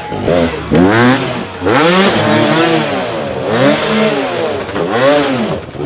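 Enduro dirt bike engine being revved up and down in repeated throttle bursts, its pitch rising and falling about five times.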